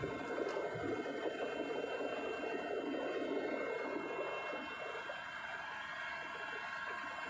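Helicopter running: a steady rushing noise with several high, steady whines over it.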